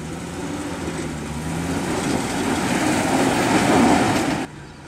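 Jeep Cherokee XJ engine revving hard under load as the Jeep climbs a steep rock ledge, growing louder and rising in pitch, then cutting off suddenly about four and a half seconds in.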